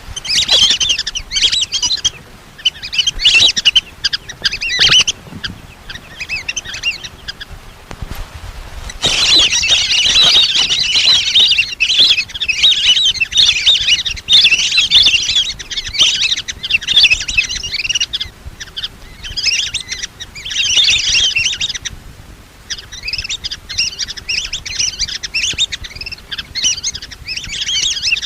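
Flock of lesser whistling ducks calling: many quick, high, chattering whistles in bursts with brief pauses, densest from about a third of the way in. It is a lure call used by hunters to draw the ducks in.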